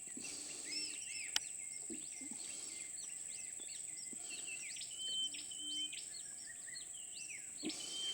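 Tropical rainforest ambience: a steady high insect drone under many quick bird chirps and whistles, with a sharp click a little over a second in.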